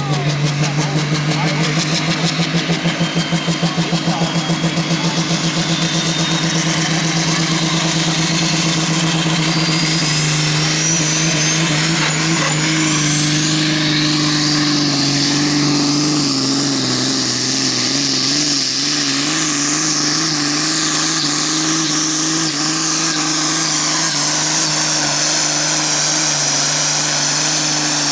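Super Sport class pulling tractor's engine running at full power through a pull, the engine note pulsing at first, then steadying. A high whine climbs steadily in pitch over the first half, and the engine note wavers a little near the middle.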